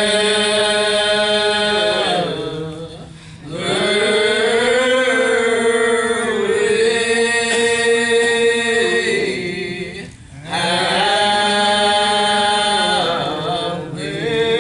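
Church singing: voices holding long, slow sung phrases, with brief breaks between phrases about three seconds and ten seconds in.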